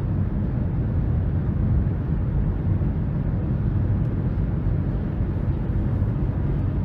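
Steady interior cabin noise of a 2023 Nissan Rogue cruising at highway speed, about 70 mph: road and tyre rumble with a low, even hum from its turbocharged 1.5-litre three-cylinder engine.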